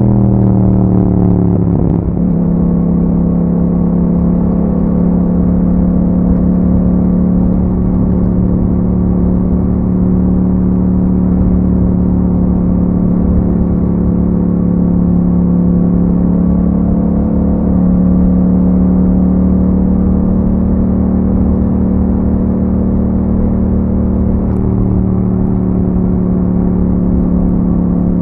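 2021 Yamaha MT-07's 689 cc parallel-twin engine running through an Akrapovič exhaust while riding, held at a nearly steady engine note. The note shifts briefly about two seconds in, then stays even, with only small changes in pitch.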